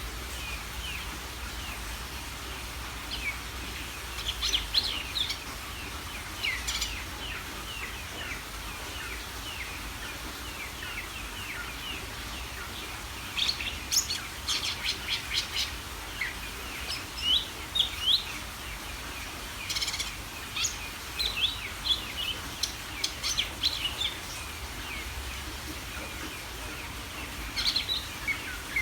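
Cucak ijo (green leafbird) singing in bursts of rapid, high chirps and whistles, with short pauses between phrases.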